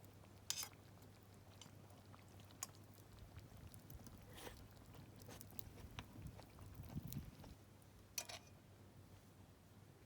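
Wood campfire crackling faintly: a few scattered sharp pops and crackles a second or more apart over a low steady hum.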